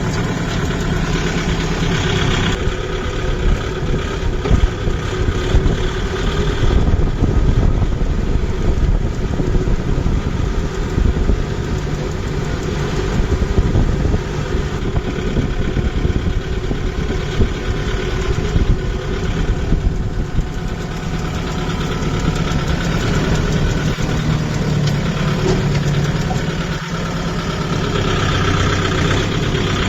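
Kubota MU5502 tractor's four-cylinder diesel engine running steadily while plowing a paddy field. It has an even pitched hum at the start and again from about twenty seconds in, and sounds rougher in between.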